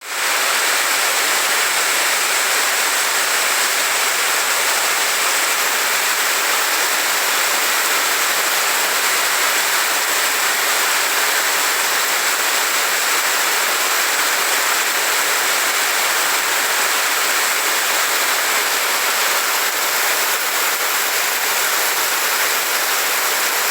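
Heavy rain with floodwater running in the street: a loud, steady, even rush of water.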